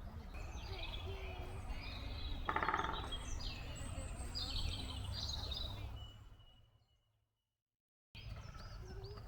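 Several songbirds singing and chirping in spring woodland over a low steady rumble, with a brief louder call about two and a half seconds in. The sound fades to silence around six to seven seconds in, and birdsong starts again abruptly about a second later.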